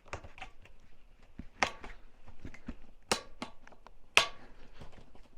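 Irregular sharp knocks and clicks of hand work on building materials, with four louder knocks among many smaller taps.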